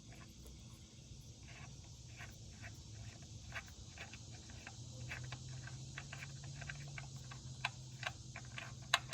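Irregular light clicks and ticks from work at the oil drain under a car, over a low steady hum.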